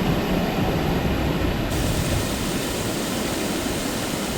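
Steady rushing noise of wind buffeting the microphone over the moving water of a swollen river.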